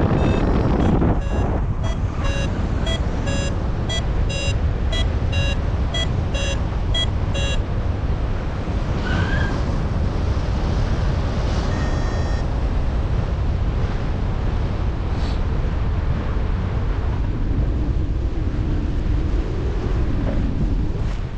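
Wind rushing over the microphone in paragliding flight, with a flight variometer beeping about twice a second for the first several seconds, the tone it gives when the glider is climbing in lift.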